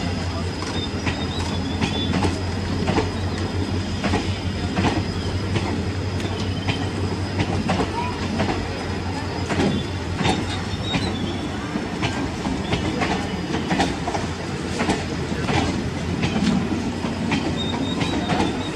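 Passenger train coaches rolling past, their wheels clicking over rail joints with a faint intermittent high squeal, over a steady low hum that fades about halfway through.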